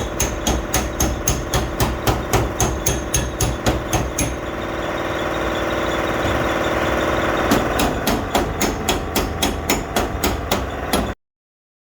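Hammer tapping rapidly and evenly on a car's sheet-metal body panel, about three to four blows a second, as dents are beaten out. The blows pause for about three seconds and then resume, over a steady machine hum, before the sound cuts off suddenly near the end.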